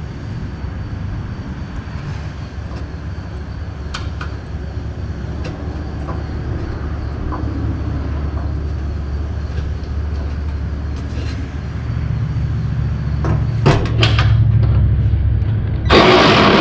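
Hand work on a brake hose fitting: a few light metallic clicks and taps over a steady low hum, and a short loud scraping rustle near the end.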